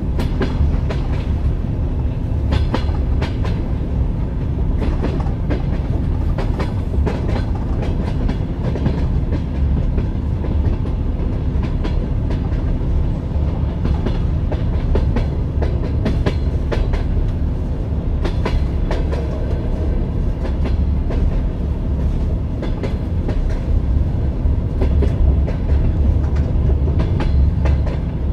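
Moving passenger train: a steady low rumble with the clickety-clack of the wheels over rail joints, sharp knocks coming in irregular clusters.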